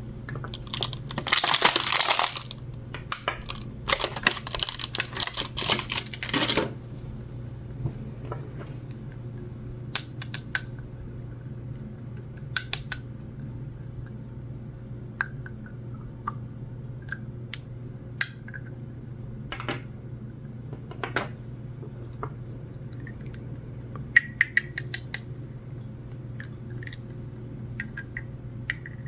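Plastic packaging rustling and crinkling for the first six seconds or so, then scattered light clicks and taps of small plastic toy pieces being handled.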